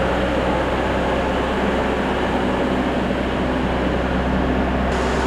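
Diesel engine running at a steady speed, a constant low rumble with an even hum over it.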